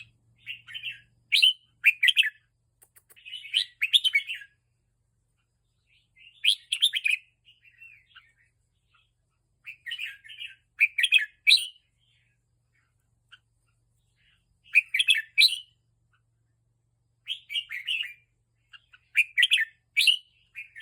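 Red-whiskered bulbul singing: short, quick bursts of bright chirping notes, delivered as brief phrases about eight times with pauses of a second or two between them.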